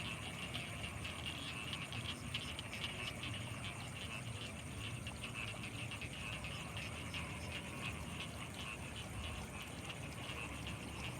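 Rice-field frogs calling in a dense, continuous night chorus of rapid pulsing calls, with a steady high-pitched whine above them and a low rumble beneath.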